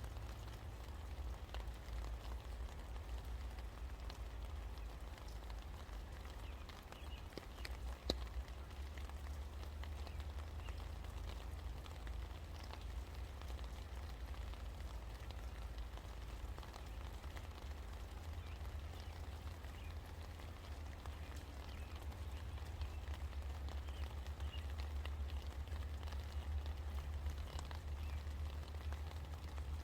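Steady rain falling, with scattered drips ticking over a low steady rumble. There is one sharp tick about eight seconds in.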